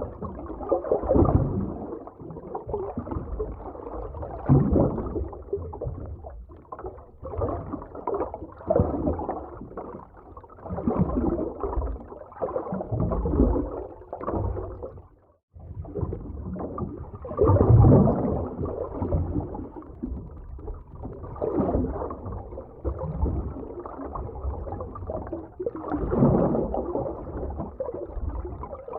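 Muffled underwater ambience: low rumbling, gurgling water that swells and fades in surges every two or three seconds, with a brief cut-out about halfway through.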